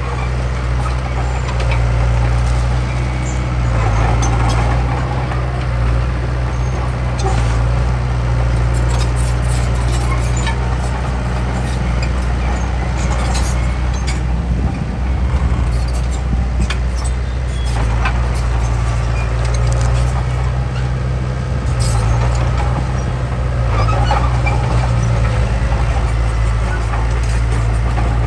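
A heavy earthmoving machine's diesel engine running steadily under load, with scattered metallic clanks and clicks throughout.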